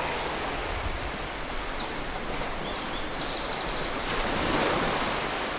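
Steady rushing of water outdoors, swelling a little near the end, with a few short high chirps around the middle.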